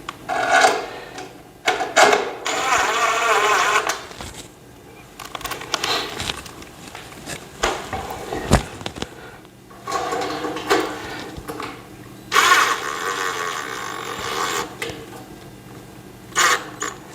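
A power screwdriver runs in several short bursts, the two longest about two seconds each, driving screws into the TV stand's metal frame, with a few sharp knocks of parts being handled.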